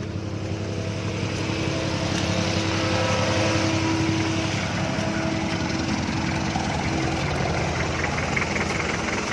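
Engine of an off-road 4x4 running at low speed close by. It gets louder over the first few seconds, then holds steady.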